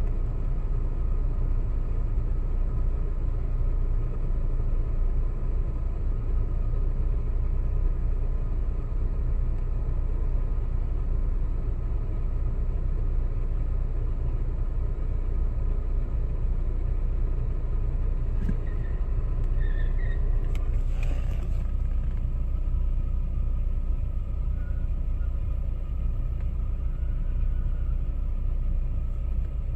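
Steady low rumble of a running motor vehicle. A few faint short chirps sound between about 18 and 20 seconds in, and a brief noise burst comes about 21 seconds in.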